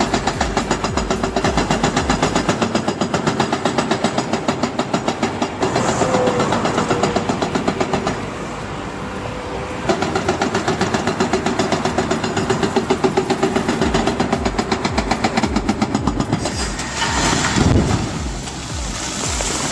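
Heavy machine engine running with a fast, even pulse, changing in character a few times and swelling in a louder low rumble near the end.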